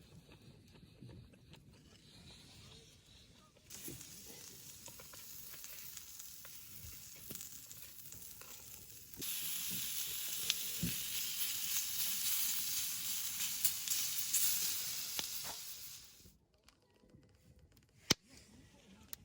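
Meat sizzling as it cooks over high heat, a steady hiss with small pops. It gets louder about halfway through and cuts off suddenly a few seconds before the end.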